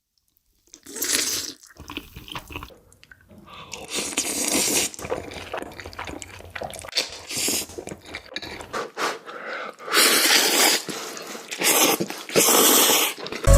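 A person eating spicy noodles close to the microphone: several loud, noisy mouthfuls, each about a second long, with quieter chewing between them.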